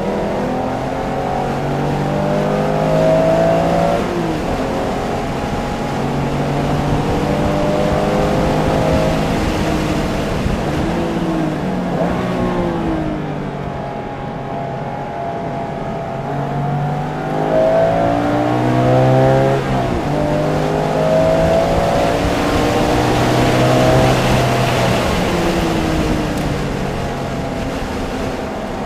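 Porsche engine at speed on a race track, repeatedly revving up through the gears in rising sweeps, its pitch falling back at each shift and under braking, over steady wind and tyre noise.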